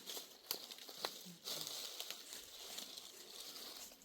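Crinkling and rustling with several sharp clicks or snaps, then a steadier rustle for about two seconds.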